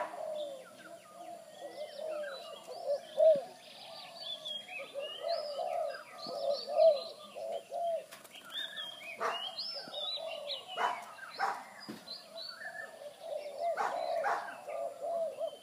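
Birds calling: a continuous run of short, low arching notes like cooing, mixed with higher chirps and whistled glides, broken by a few sharp clicks.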